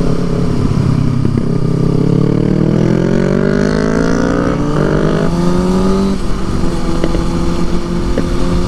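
Motorcycle engine accelerating, its pitch rising, with a gear change about four and a half seconds in and the revs falling back about six seconds in before it runs on steadily. A few faint pops near the end.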